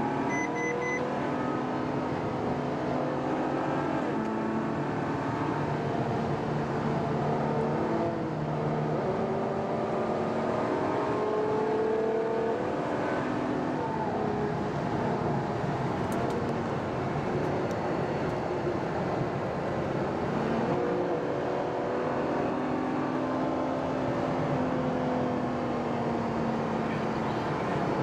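Car engines running steadily, with several engine notes at different pitches slowly rising and falling.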